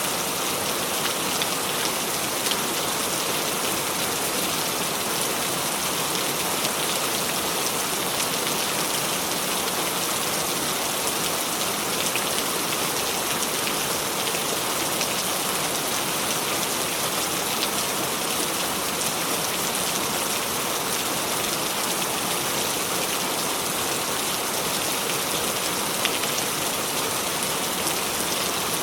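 Steady rain: an even hiss of falling rain with scattered sharper drop hits.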